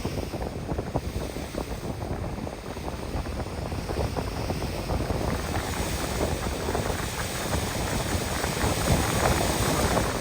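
Wind buffeting the microphone over a steady rush of water, growing slowly louder.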